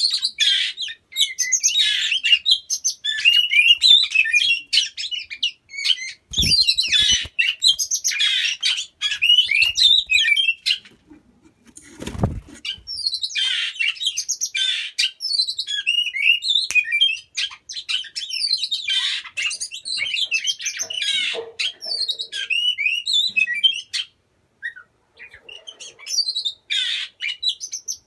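Oriental magpie-robin (kacer) singing a long, continuous run of fast, varied chirps and whistles. Two short dull knocks come about six and twelve seconds in.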